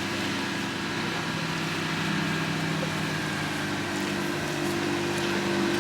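An engine running steadily with an even, unchanging hum; it cuts off suddenly at the end.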